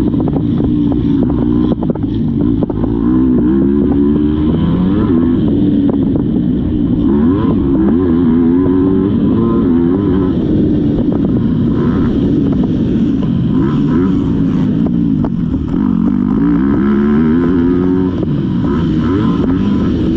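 Motocross dirt bike engine, loud and close, revving up and falling back again and again as the rider works the throttle and gears around the track.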